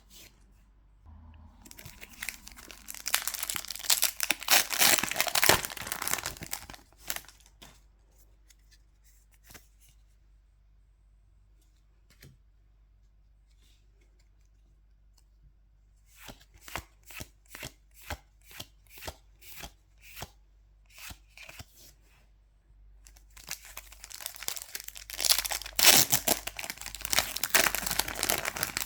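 Foil booster-pack wrappers being torn open and crinkled, in two long bursts. Between them come about a dozen evenly spaced clicks, roughly two a second, as the cards are flipped through one by one.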